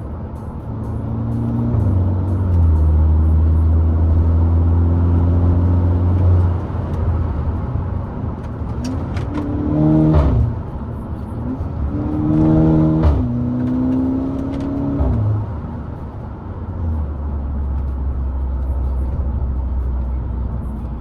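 VW Golf Mk6 GTI Edition 35's turbocharged 2.0-litre four-cylinder with a decat downpipe under way. It holds steady revs, then pulls up through the revs twice about halfway through, with the pitch dropping at each gear change and short sharp cracks around the shifts, then settles back to a steady drone near the end.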